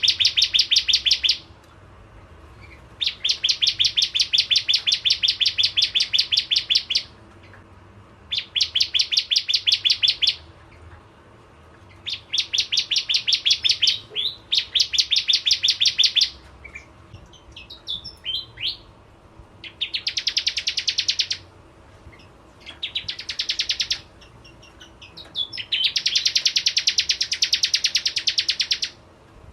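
Bar-winged prinia singing: a series of fast, high trills of evenly spaced notes, each lasting one to four seconds, with a few short single chirps between them.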